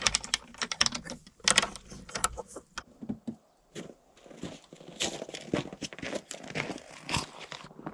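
Irregular crinkling and rustling handling noise with scattered sharp clicks and knocks, dropping away briefly about three and a half seconds in.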